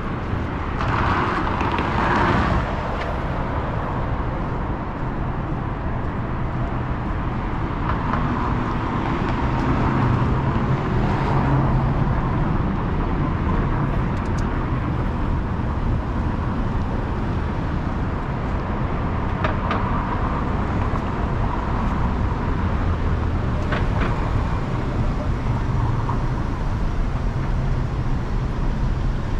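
City street ambience: a steady traffic rumble with vehicles passing, and a few brief higher sounds coming and going over it.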